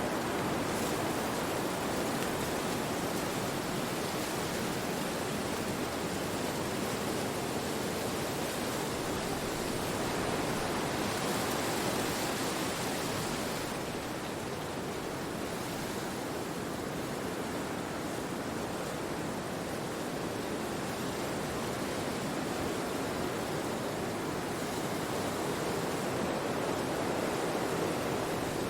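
Wind blowing through forest trees: a steady rushing of leaves that swells in gusts about halfway through and again near the end.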